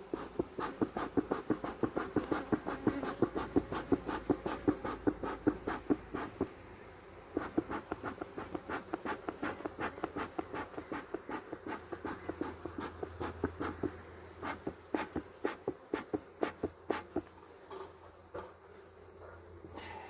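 Honeybees buzzing around an open hive, with a fast rhythmic rasping, about four or five strokes a second, in runs of several seconds that stop a few seconds before the end.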